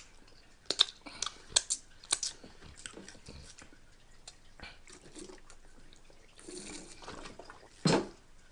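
Close-up crunchy chewing of Flaming Hot Cheetos nachos: a run of sharp crunches in the first two seconds, then quieter, wetter chewing. One louder mouth sound comes just before the end.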